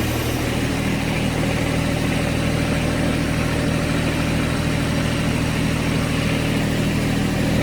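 John Deere 1025R compact tractor's three-cylinder Yanmar diesel engine running steadily.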